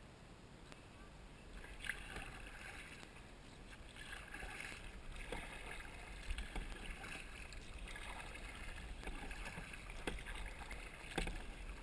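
Kayak paddle strokes: water splashing and dripping off the paddle blades in uneven surges, with a few sharp knocks, starting about a second and a half in.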